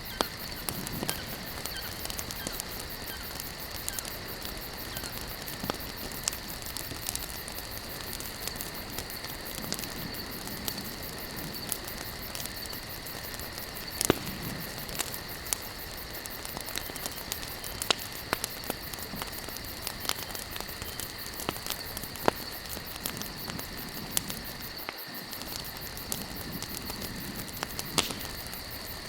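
Campfire logs burning with steady crackling and frequent sharp pops, the loudest about 14 s in, over a steady high-pitched background drone.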